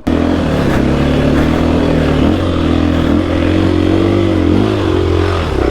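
Dirt bike engine running at low, fairly steady revs, its pitch rising and dipping slightly now and then.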